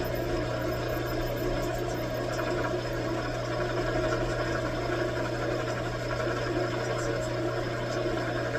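Metal lathe running at a steady speed: a constant motor hum with a low drone that neither rises nor falls.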